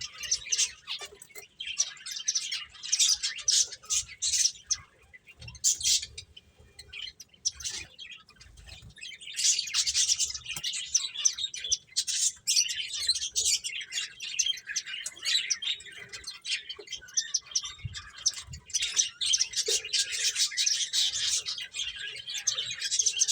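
Several pet finches chirping in busy runs of short high calls, with a quieter lull of a few seconds about a third of the way in.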